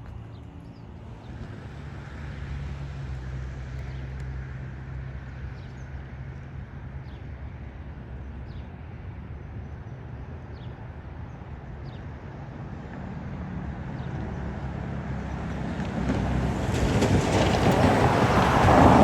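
A vehicle engine's low, steady drone, then a loud rush of noise building over the last few seconds.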